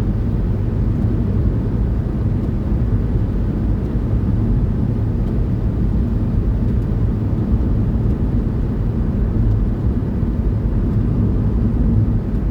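Steady low rumble of a car cruising on a motorway, the engine and tyre noise heard from inside the cabin.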